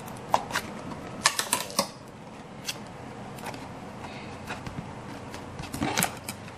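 Scattered small clicks and taps of hands handling and sticking on pieces of a handmade model ship, bunched in the first two seconds and again near the end.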